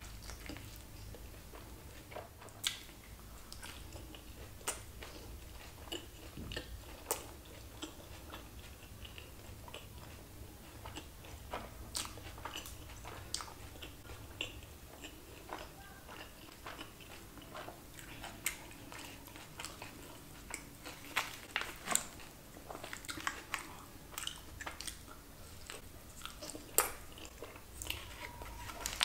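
Close-up mouth sounds of eating a crispy chicken wrap: chewing with many short, sharp crunches and smacks, coming more often in the last third.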